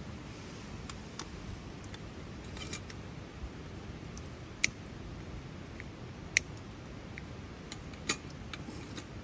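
A few sharp, isolated clicks and pops, irregularly spaced and about two seconds apart at their loudest, over a low steady hiss.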